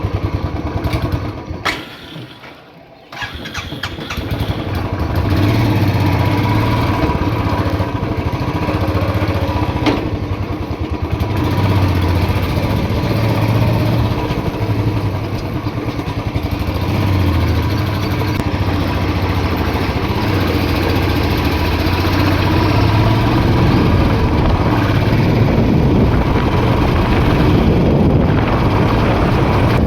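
Motorcycle engine running while the bike is ridden. The sound drops away about two seconds in and comes back sharply a second later. After that the engine runs steadily, its note rising and falling.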